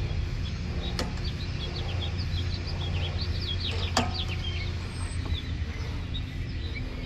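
Small birds chirping, many short quick chirps, over a steady low hum. Two sharp clicks stand out, about a second in and again about four seconds in.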